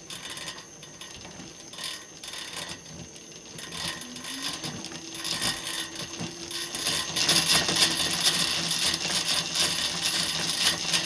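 Metal clicking and rattling of the e-bike's chain drive, growing busier and louder in the second half. A short steady hum comes a few seconds in.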